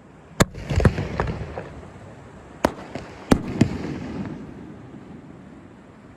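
Fireworks bursting: about six sharp bangs in two quick groups, about half a second in and again around three seconds in, each followed by crackling and a rumbling echo that dies away.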